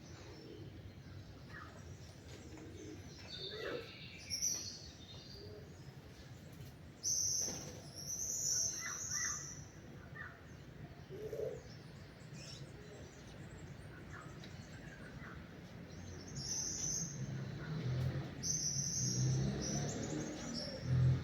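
Several wild birds chirping and calling at intervals over a steady outdoor background, with short high trills and lower chirps from different birds. A low hum grows in the background in the second half.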